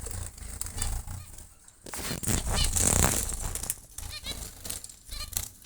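Zebra finches calling: repeated short, high chirps in quick series, with a burst of rustling wing noise about three seconds in.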